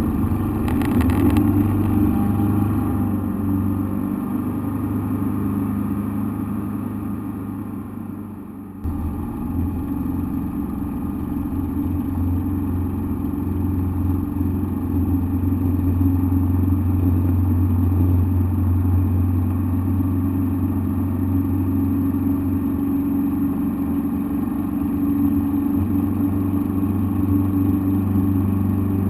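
Engine drone heard from inside a cockpit, running steadily. It eases off slightly for a few seconds, then comes back up sharply about nine seconds in and holds steady.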